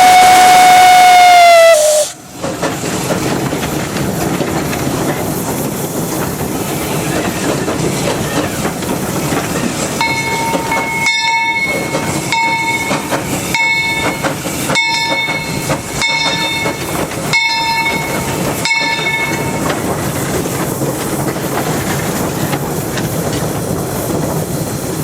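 Narrow-gauge steam locomotive "Henry Clay": its steam whistle blows loud and steady, then cuts off about two seconds in. The engine and cars then run steadily over the rails with a hiss of steam. In the middle stretch a bell rings several times at an even pace.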